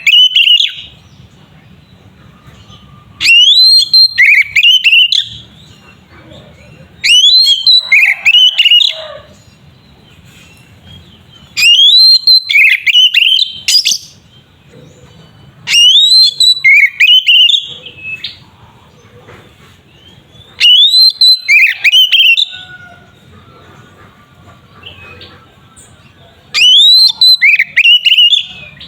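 Oriental magpie-robin (kacer) singing loud whistled phrases with rising sweeps. Each phrase lasts about two seconds and they repeat every four to five seconds, six times in all, with a faint low hum in the gaps.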